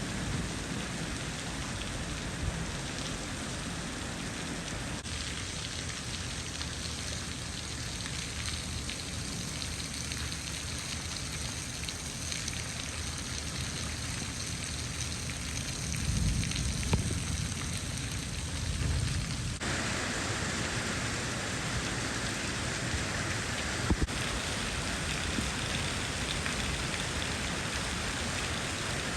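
Heavy rain pouring down steadily, its hiss changing abruptly twice, with a low rumble about two-thirds of the way through.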